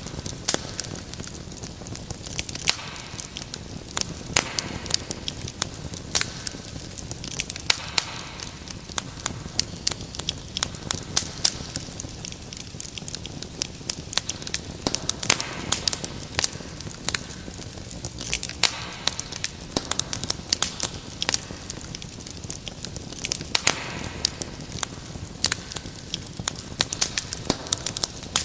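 Wood fire in a fireplace crackling: dense, irregular sharp pops and snaps over a low, steady rush of burning.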